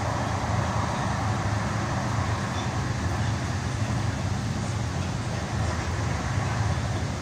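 DART light rail train running at speed, heard from inside the passenger car: a steady running noise of the car and its wheels on the track.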